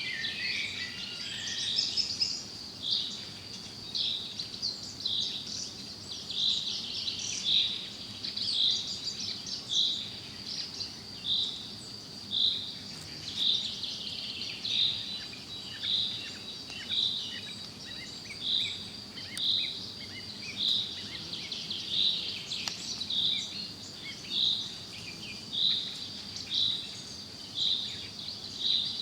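Forest birds chirping and singing over a steady high-pitched insect drone, with one short call repeated regularly about once every second or so, which is the loudest sound.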